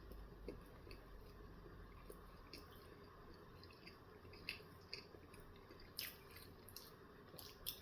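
Faint chewing and wet mouth clicks from a person eating, with a few soft clicks scattered through an otherwise quiet stretch.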